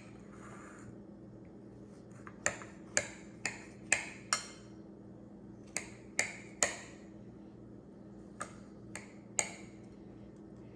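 Kitchen knife slicing strawberries on a cutting board: about eleven sharp taps of the blade on the board, in three quick runs of three to five, over a faint steady hum.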